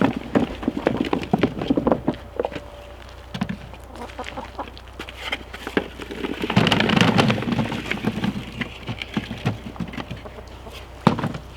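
Potatoes being handled and dropped into a bag: an irregular run of knocks and rustling, with a longer clatter about seven seconds in.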